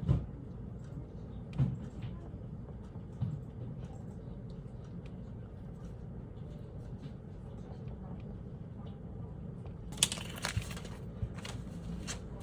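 Office room tone with a steady low hum, broken by a few soft knocks early on and a short run of sharp clicks and rustles near the end.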